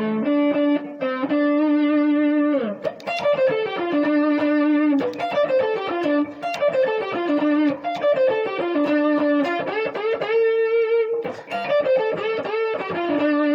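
Solo electric guitar playing a blues lick: notes bent up and falling back through short descending runs, the fourth bent to the fifth and dropping through the minor third to the root, with a held note wavering with vibrato about ten seconds in.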